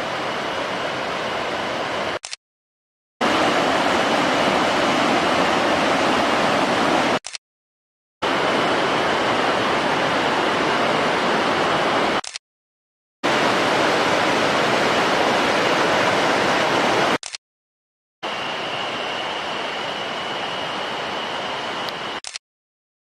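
Rushing water of a mountain stream, a steady roar in short takes of about four to five seconds, each ending abruptly in a gap of silence before the next begins.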